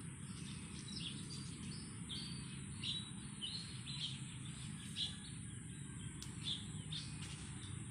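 Birds chirping, short high calls repeating every half second to a second, over a steady low rumble of outdoor background noise.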